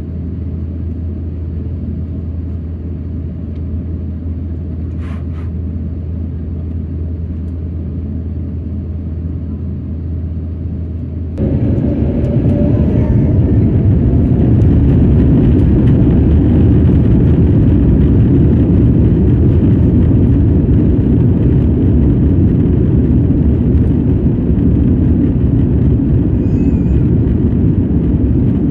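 Airliner cabin noise, heard from inside the Air India Airbus A350: a steady low drone that steps up abruptly about eleven seconds in to a louder rushing noise, with a brief rising whine just after.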